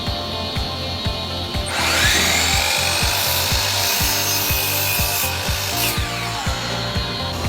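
A power tool grinding or abrading a workpiece, starting about two seconds in and stopping about six seconds in, over background music with a steady beat.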